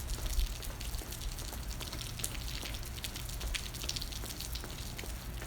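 Steady rain falling, with many individual drops ticking sharply on a surface close to the microphone, over a low rumble.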